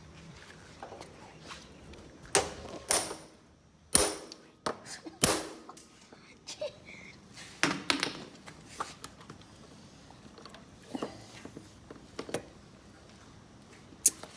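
A run of irregular sharp knocks and taps, about ten of them and the loudest in the first half, from hand tools striking and prying at a caravan's exterior panelling and fittings.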